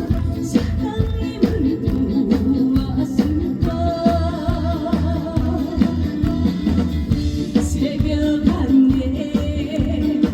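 Live band music with a singer's voice over a steady drum beat: a trot song in performance.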